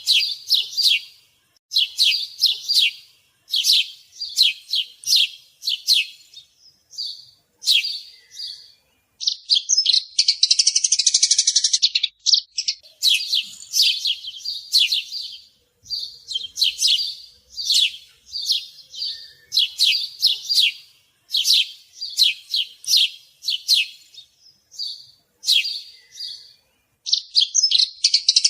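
Small birds chirping: runs of sharp, high chirps in quick succession, twice giving way to a dense, rapid chatter of about three seconds, the second near the end.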